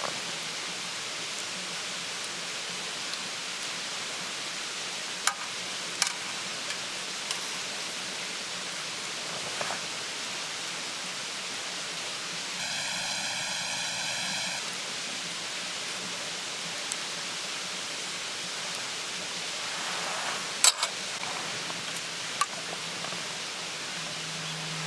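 A wood campfire crackling, with a few sharp pops over a steady rushing hiss; the loudest pop comes near the end.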